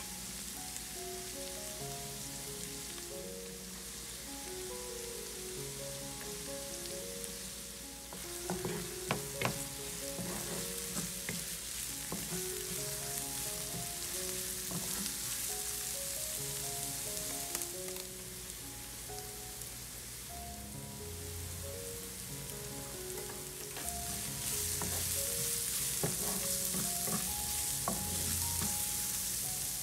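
Chopped onion, garlic and green chilies sizzling in hot oil in a nonstick frying pan while a wooden spatula stirs them, with scattered clicks and scrapes of the spatula against the pan. The sizzle grows louder near the end. Soft background music plays underneath.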